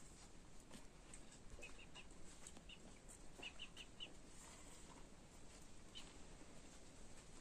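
Faint bird chirps: two short runs of three or four quick high notes, over quiet background tone with a few faint ticks.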